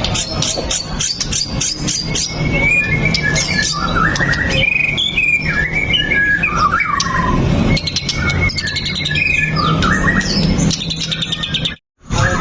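White-rumped shama (murai batu) singing a busy, varied song of clear whistles, sliding notes and rapid clicking, chattering phrases, over a steady low hum. The song breaks off completely for a moment near the end.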